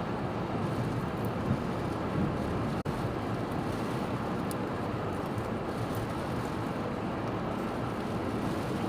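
Steady roar of storm-force wind buffeting the microphone, with rough sea behind it.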